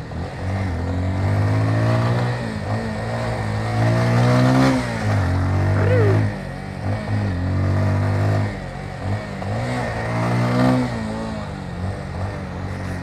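Motorcycle engine revving and pulling, its pitch climbing and then dropping several times as it changes gear. It is loudest around the middle.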